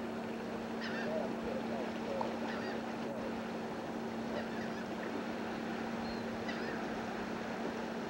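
Birds calling: short high calls about every two seconds, with a few lower calls in the first couple of seconds, over a steady hiss and a constant low hum.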